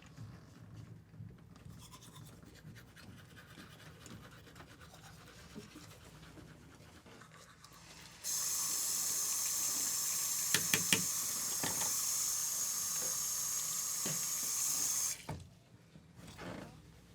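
Water running steadily from a tap, turned on abruptly about eight seconds in and shut off about seven seconds later, with a few sharp clicks while it runs.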